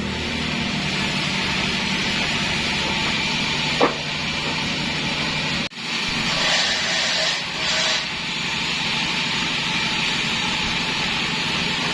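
Sawmill blade cutting through a jackfruit log, a steady noisy sawing with a short squeak about four seconds in. The sound drops out for an instant a little past halfway.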